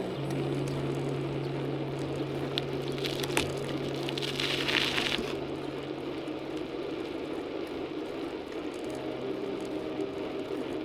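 A steady motor hum, with a couple of sharp clicks and a short hiss about four seconds in.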